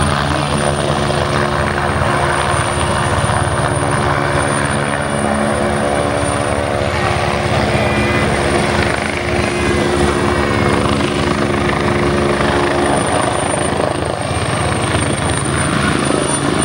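Helicopter hovering: a loud, steady hum of rotor and engine, with a thin high whine running over it.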